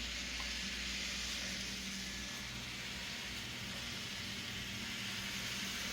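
N scale model freight train running along the layout track, with a steady whir from the locomotive's motor and wheels.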